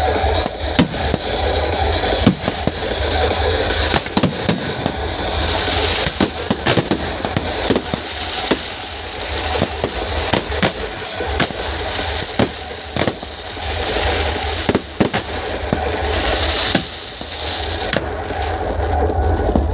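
Fireworks display: a rapid, irregular run of sharp bangs and cracks, with swells of crackling hiss every couple of seconds.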